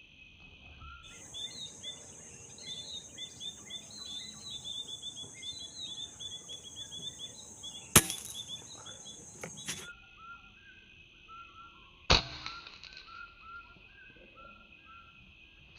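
Two sharp shots about four seconds apart, the first the louder, typical of an air rifle, over many small birds chirping and a steady high insect buzz that stops a couple of seconds after the first shot.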